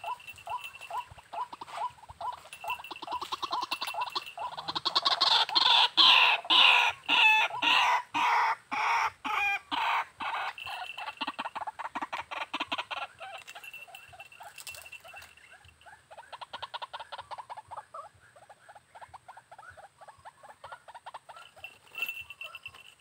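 White-breasted waterhen calling: a rhythmic series of harsh repeated notes that builds to a loud, dense bout in the middle, then goes on as a quicker, fainter series.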